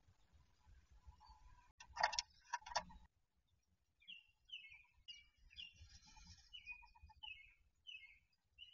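Outdoor birdsong: a harsh, loud cluster of calls about two seconds in, then short falling notes repeated about twice a second and a quick pulsed trill.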